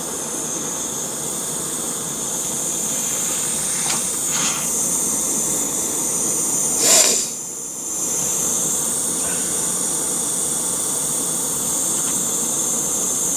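A steady hiss with a few knocks and handling sounds, the loudest knock about seven seconds in, followed by a brief drop in the hiss.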